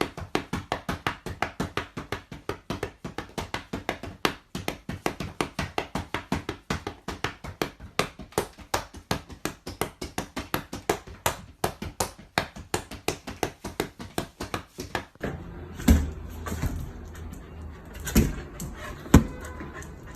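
Rapid, even clicking or tapping, about five strokes a second, which stops about fifteen seconds in. After it come a few separate knocks over a low hum.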